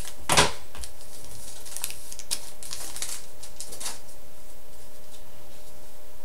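A sealed trading-card pack being opened: a sharp crackle of the wrapper tearing near the start, then scattered rustles and clicks as the pack and cards are handled.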